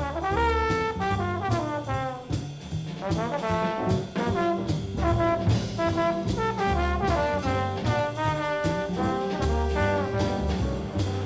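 Instrumental brass music: trombones and trumpets playing sliding, swooping phrases over a bass line and a steady drum beat.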